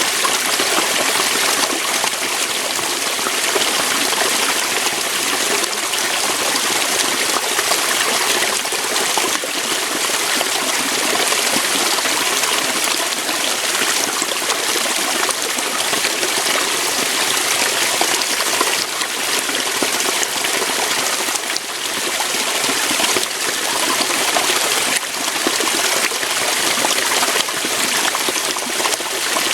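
Water flowing and splashing over rocks in a small waterfall or stream, a steady rushing with fine trickling detail.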